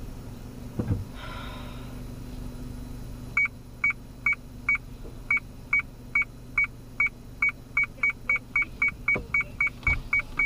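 Car parking-sensor beeping inside the cabin. The short high beeps start about three seconds in and come faster and faster, the sign of the car closing in on an obstacle. A low steady engine hum runs underneath.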